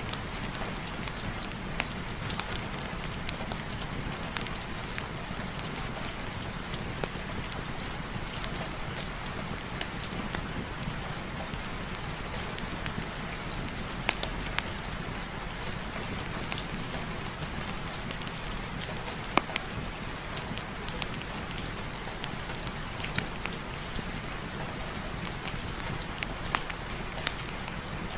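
Steady rain falling, with scattered sharp drop ticks throughout.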